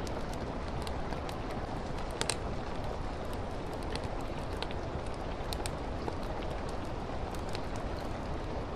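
Steady rain mixed with a crackling fireplace: an even hiss with scattered sharp pops and ticks.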